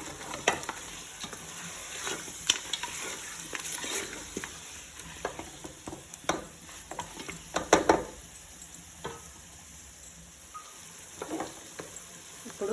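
Chicken pieces sizzling as they fry in a pan with onions and ginger, with a spoon scraping and knocking against the pan as they are stirred, in clusters, most strongly about eight seconds in.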